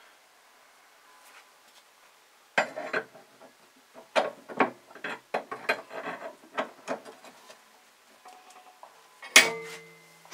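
Metal clinks and knocks from steel tools and workpiece being handled. Near the end a louder clank rings briefly, like a steel part set down on a hard surface.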